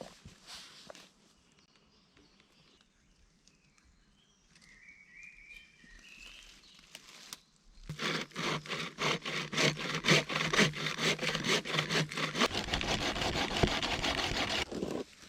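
Hand saw cutting through wood in rapid back-and-forth strokes, starting about halfway through and stopping suddenly near the end. Birds chirp faintly before it starts.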